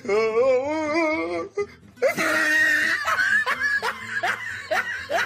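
A person laughing: first a long, wavering laugh, then after a short pause a string of quick, rising bursts of laughter.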